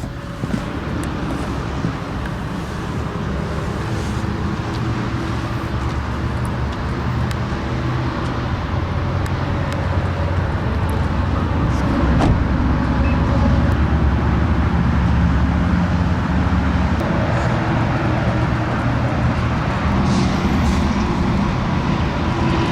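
2015 Mazda CX-5 with its engine running: a steady low drone that slowly grows louder over the first dozen seconds or so.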